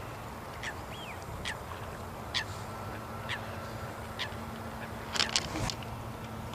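Birds giving short, sharp, high calls about once a second, with a quick run of three near the end, over a steady low hum.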